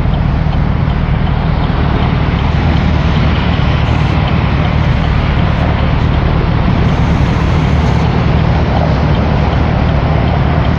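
Steady, loud low rumble of vehicle and traffic noise with an even hiss over it, unchanging throughout.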